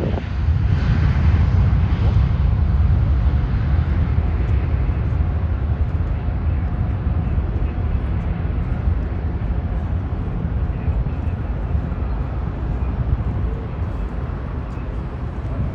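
Boeing 737-700's CFM56 jet engines rumbling deep and low, slowly fading as the airliner moves away.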